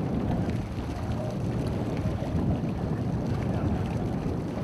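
Steady wind noise rumbling on the microphone aboard a sailing ship under way.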